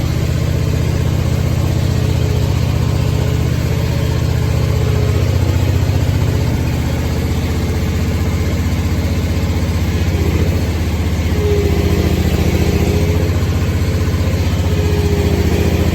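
Engine of a Scag Tiger Cat II zero-turn mower running steadily, a little louder from about five seconds in and again near eleven seconds.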